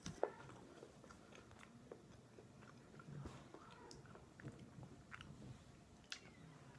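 A person faintly chewing candy, with soft wet mouth clicks and a sharper click just after the start.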